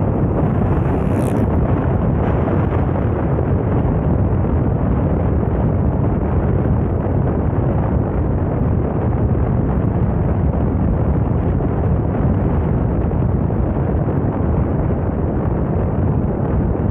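Steady, loud wind buffeting the microphone: a dense rumbling rush with no distinct tones.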